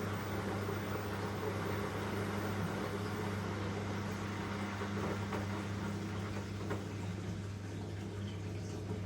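Elin washing machine running: a steady low hum with a swishing, water-like noise over it.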